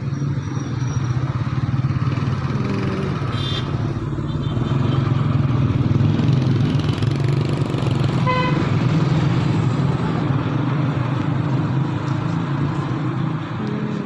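A motor vehicle's engine running steadily, with a short horn toot about eight seconds in.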